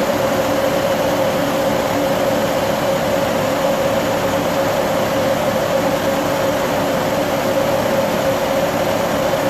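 SR20DET four-cylinder turbo engine running steadily at idle, a continuous mechanical hum with a strong steady drone.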